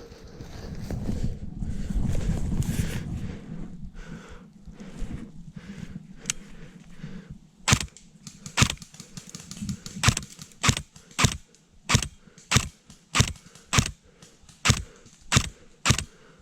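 Airsoft gun firing single shots in a steady run, about a dozen sharp cracks roughly one and a half a second, starting about six seconds in. Before them, low rumbling noise.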